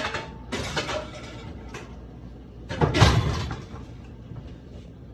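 A few knocks and rustles of things being handled in a kitchen, the loudest about three seconds in.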